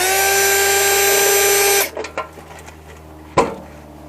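A power drill's motor running at a steady high whine for about two seconds, then stopping, followed by a few light clicks and one sharp click about three and a half seconds in.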